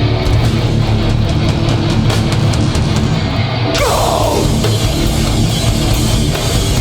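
Hardcore band playing live without vocals: heavy distorted guitars, bass and drums. About four seconds in, cymbals crash in with the full band, and a sound slides down in pitch.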